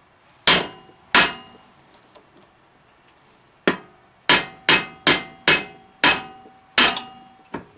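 A hammer tapping a workpiece to nudge a machine setup into fine adjustment. There are two taps, then after a pause a quicker series of about seven, roughly two a second, the last one light, and each strike rings briefly like metal.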